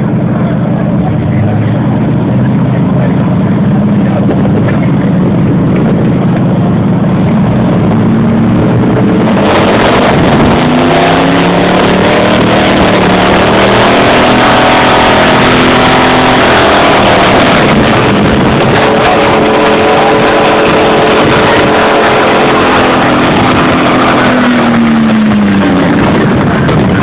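Truck engine running steadily, then revved up and held high for a long stretch with the pitch rising and falling, and winding down near the end.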